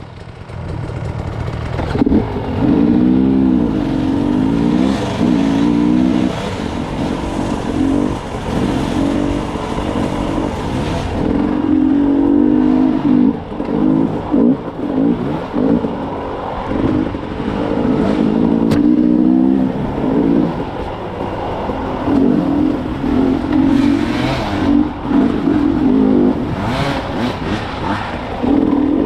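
Dirt bike engine on a trail ride, revving up and easing off over and over as the rider works the throttle and shifts through the turns. The pitch keeps climbing and dropping with short dips between pulls.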